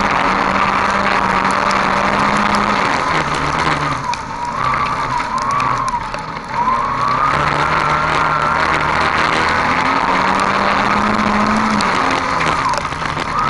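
Race car's engine running hard at high revs, heard from on board over a steady rush of road and wind noise. The engine note drops and wavers between about four and seven seconds in, then climbs again.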